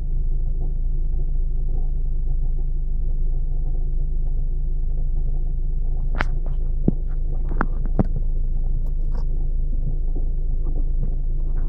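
Ford Focus 2 2.0-litre running steadily, a continuous low rumble and hum from the drivetrain that the owner takes for a worn, knocking gearbox input shaft bearing. A few sharp clicks sound about six to eight seconds in.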